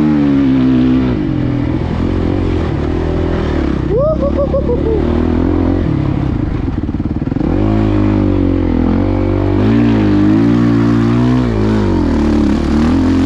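Suzuki motocross bike's engine revving up and down under load around the track, with a quick run of short rising revs about four seconds in. The revs drop to a choppy, off-throttle run for a second or so in the middle, then climb again as the throttle is opened.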